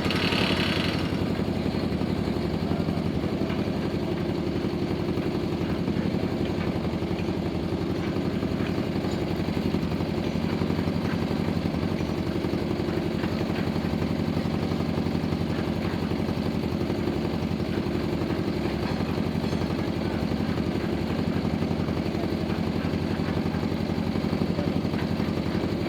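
Cement mixer's diesel engine running steadily with a fast, even chug, newly started by hand crank.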